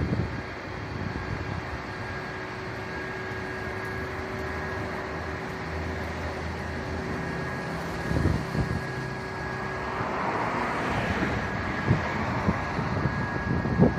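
A vehicle engine running steadily, with a few short knocks and a rushing swell about ten seconds in.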